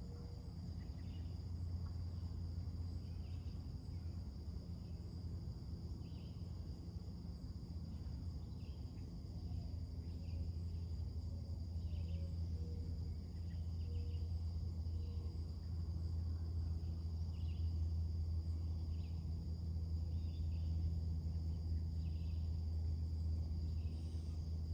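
Summer-morning outdoor ambience: a continuous high, steady drone of crickets and other insects, with scattered short bird chirps every second or two. Underneath, and loudest, is a steady low rumble.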